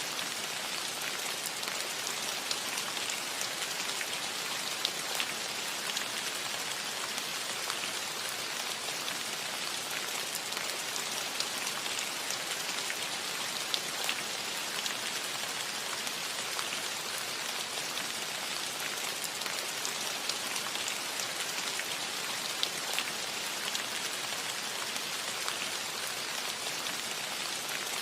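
Steady rain falling on a roof: a dense, even hiss with many individual drops ticking sharply through it.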